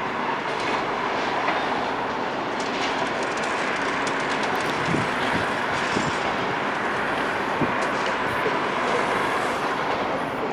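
Demolition machinery working steadily: a continuous mechanical rumble and clatter with scattered small knocks.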